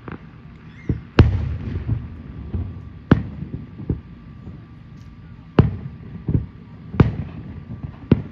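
Aerial firework shells bursting in a display: about nine sharp bangs at uneven intervals, each followed by a short low rumble, the loudest about a second in.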